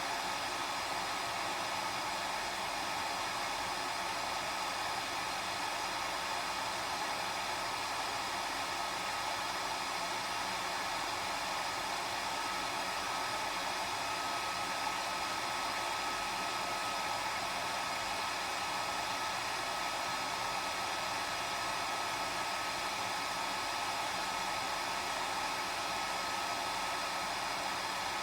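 Hair dryer running steadily: an even rush of blown air with a faint constant whine.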